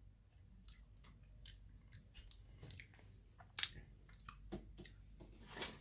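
Faint chewing: a person eating, with scattered small mouth clicks and one sharper click about three and a half seconds in.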